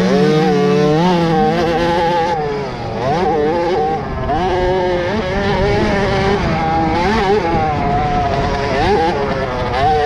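Several 50cc two-stroke youth motocross bikes running on the track, their engines revving up and down with the throttle as they ride, more than one engine note overlapping at a time.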